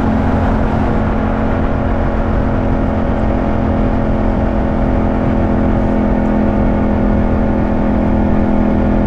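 Yamaha CP2 689 cc parallel-twin motorcycle engine running at a steady speed while riding, its note holding even without shifts or revs.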